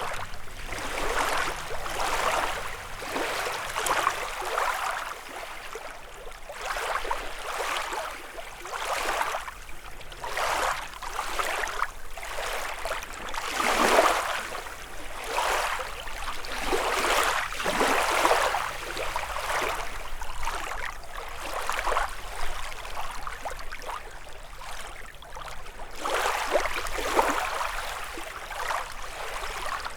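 Small waves lapping on a lakeshore, one wash after another every second or two, with a bigger wash about halfway through.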